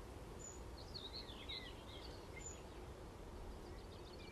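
Wild birds singing outdoors over steady wind noise on the microphone: a warbling twittering phrase about a second in, a rapid trill near the end, and a short high note repeated every couple of seconds.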